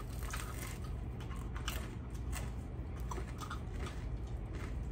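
Close-miked eating of air-fried rotisserie chicken and bread rolls: chewing and biting, with scattered small crisp clicks and crunches, over a faint steady low hum.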